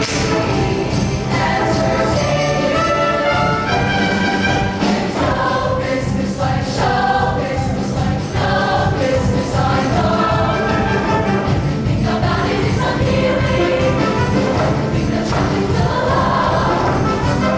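Show choir singing in harmony over a band accompaniment with a steady beat and a jingling, tambourine-like percussion.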